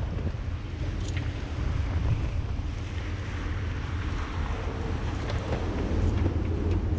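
Squall wind buffeting the microphone in a steady low rumble, over the rush of wind and sea aboard a sailboat.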